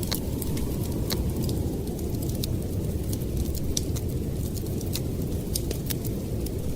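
Wood fire crackling in a fireplace: irregular sharp pops and snaps over a steady low rumble of storm wind.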